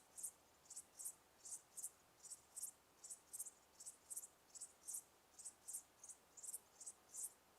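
Crickets chirping faintly in a steady, even rhythm, with high-pitched pulsed chirps about two to three times a second.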